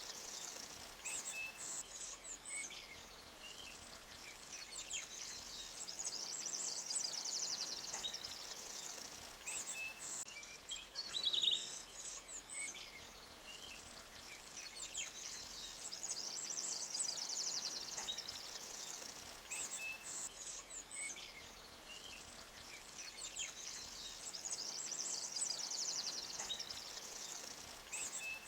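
Forest songbirds singing, with high rapid trills and chirps that come back every several seconds, over the faint steady rush of a small stream.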